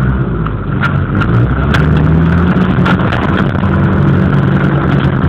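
A vehicle's engine running hard under throttle while driving in soft sand. It revs up about a second and a half in and then holds steady, with scattered knocks and rattles.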